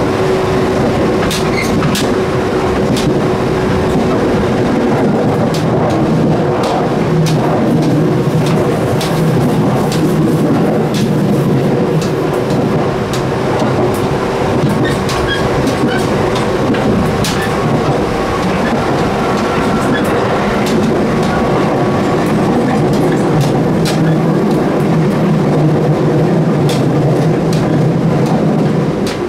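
JR 213 series electric multiple unit running along the line, heard from the gangway between two cars: a loud, steady rumble of wheels and running gear with a held hum. Scattered sharp metallic clicks come through it.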